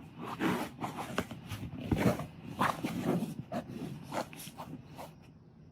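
A dog making a rapid string of short, irregular breathy noises, about two to three a second, fading out near the end.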